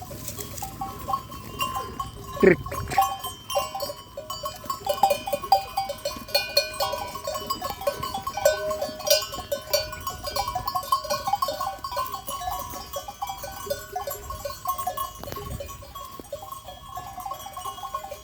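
A flock of sheep feeding on apples: small neck bells clink continually and there are scattered crunching clicks, with a single falling bleat about two and a half seconds in.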